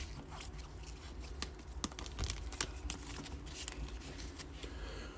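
Faint, scattered clicks and rustles of trading cards and card packs being handled.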